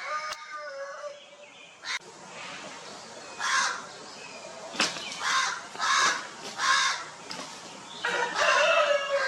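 Domestic chickens: a rooster's crow trails off at the start, a run of about five short clucking calls follows in the middle, and another rooster crow begins near the end, falling in pitch as it goes.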